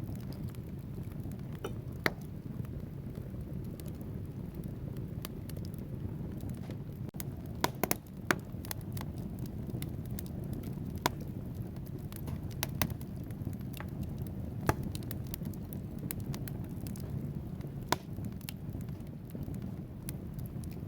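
Wood fire burning in a fireplace: a steady low rumble of flames with scattered sharp crackles and pops from the logs. The loudest pops come about two seconds in, in a cluster around eight seconds in, and near the end.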